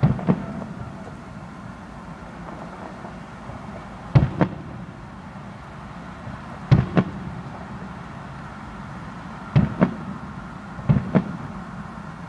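Fireworks bursting, five double bangs a few seconds apart, each pair about a quarter second apart, over a steady background noise.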